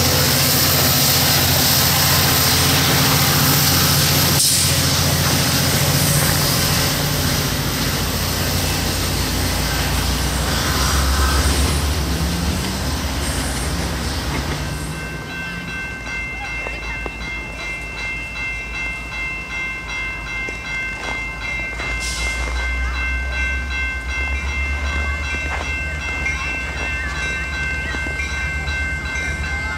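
Ex-GO Transit F59PH diesel locomotive on the end of a bilevel commuter train passing, its engine running with rail noise, fading as the train moves off. About halfway through, a level-crossing warning bell rings steadily over a low rumble.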